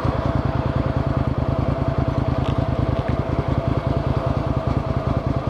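Motorcycle engine idling steadily, a rapid even pulsing with no revving.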